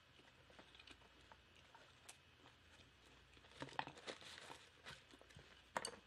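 Faint close-up chewing with the mouth closed: soft wet mouth clicks, with a cluster of louder ones about three and a half seconds in and another sharp one near the end.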